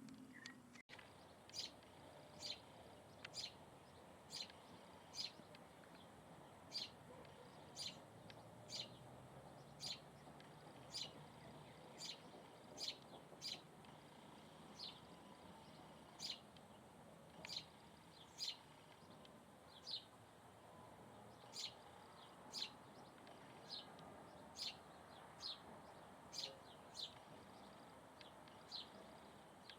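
A bird chirping repeatedly: short, sharp, high calls about once a second, over a faint steady background hiss.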